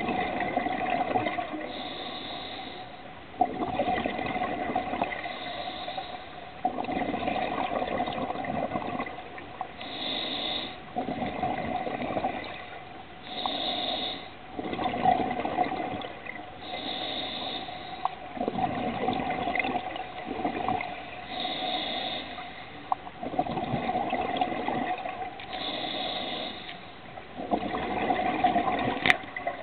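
Scuba diver breathing through a regulator underwater: a short hiss on each inhale, then a longer rush of exhaled bubbles, about one breath every three to four seconds.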